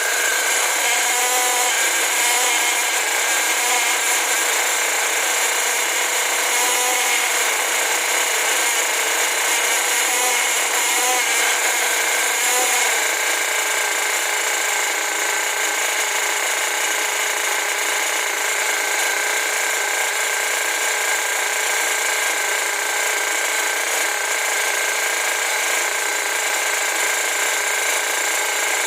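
Freshly rebuilt Force .32 two-stroke nitro glow engine running on a break-in run, giving a steady high-pitched buzz. Its pitch wavers slightly for the first dozen seconds, then holds steady.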